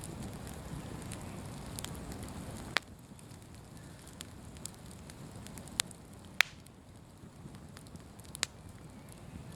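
Open bonfire crackling, with several sharp pops, the loudest about three seconds in and near the middle. A low rush under the crackle eases off after the first big pop.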